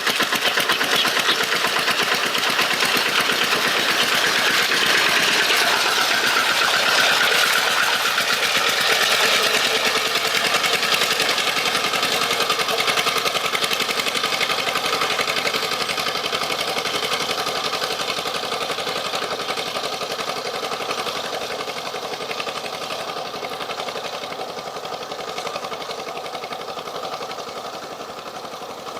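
Small engine running steadily with a fast, even pulse, fading gradually over the last several seconds.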